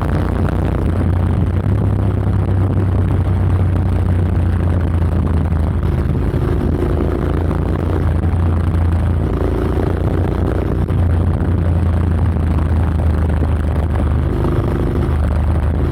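Honda X-ADV's 745 cc parallel-twin engine running through an SC-Project SC-1R slip-on exhaust with its dB killer fitted: a loud, steady low exhaust drone with slight rises and falls in pitch.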